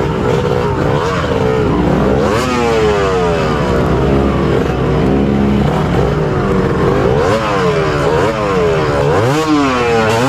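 Trail motorcycle engine running under load, revved sharply several times. The pitch jumps up about two seconds in and again around seven and nine seconds, falling back in between.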